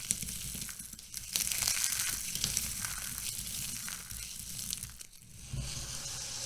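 Dry soap being crushed, a dense crunching crackle full of small sharp cracks. It grows louder about a second in, eases briefly around the five-second mark, then picks up again.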